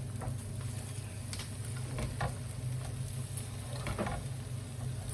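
Syrniki (cottage-cheese pancakes) sizzling in oil in a frying pan, with a few light taps of a utensil against the pan over a steady low hum.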